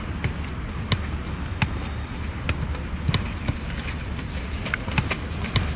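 Irregular sharp taps and knocks, about one or two a second, over a steady low rumble.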